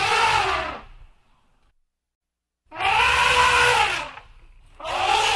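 Elephant trumpeting: three loud calls about a second each, each rising then falling in pitch, the last running on past the end.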